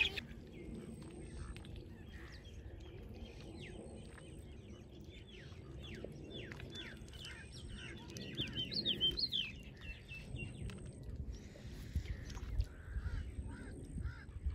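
Many short, quick chirps of small birds calling in the background, thickest through the middle, over a low steady outdoor rumble. The ducks themselves make no clear call.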